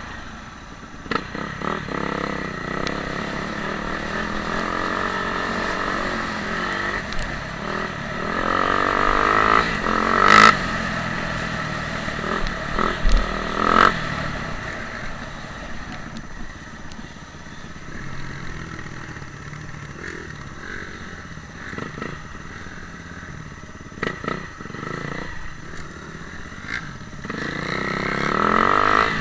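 Motocross dirt bike engine revving up and down as it rides. It is loudest in sharp revs about ten and fourteen seconds in, drops back for a while, then builds again near the end.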